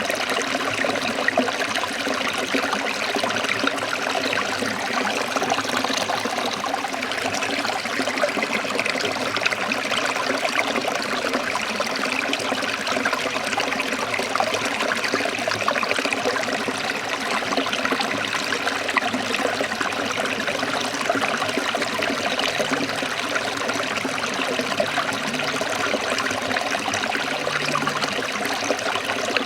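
Forest stream flowing and trickling over rocks, a steady, even rush of water throughout.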